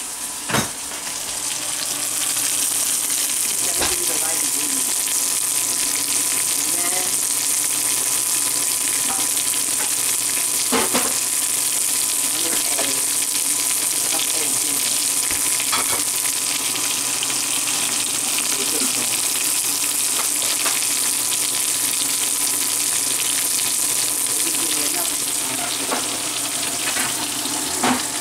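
Breaded pollock fillets frying in oil in a pan: a steady sizzle that swells about two seconds in and holds, with a few light clicks now and then.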